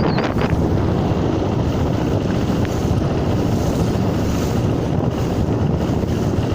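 Wind buffeting the microphone over choppy waves on a canal, a steady, loud, rumbling wash. A brief high whistling chirp comes right at the start.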